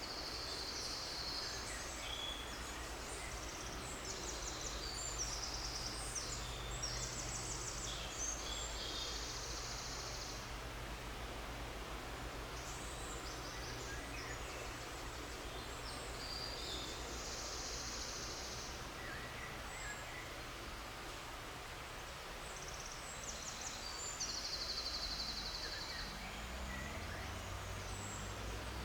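Birds singing high, fast trills in repeated bursts over a steady low rumble of outdoor background noise. A low rising hum comes in near the end.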